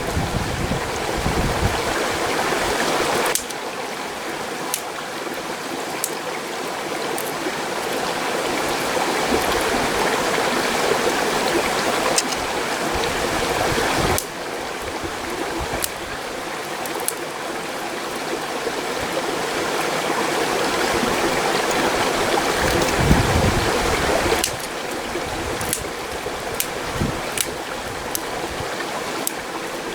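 Mountain stream rushing steadily, with a few sharp clicks and low gusty rumbles over it.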